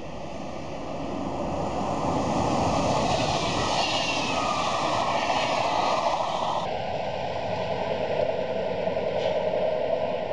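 Electric passenger train with double-deck coaches passing close at speed: a rushing noise of wheels on rail and air that swells over the first two seconds and stays loud. About two-thirds of the way through it cuts abruptly to a different, steadier rushing noise.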